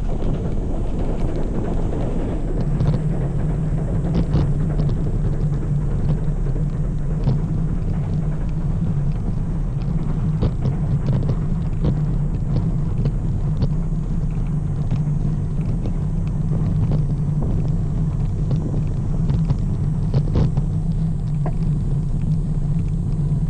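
Steady rumble of a road bike riding along, tyres running on the pavement with wind on the microphone, a steady low hum and many small ticks from bumps in the surface.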